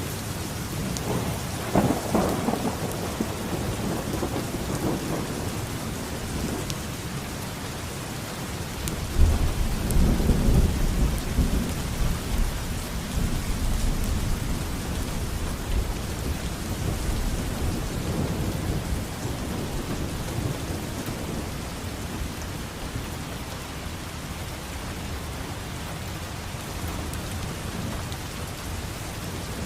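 Steady rain with rolling thunder: a rumble about two seconds in, then a louder, deeper peal about nine seconds in that rolls on and fades over the next ten seconds or so.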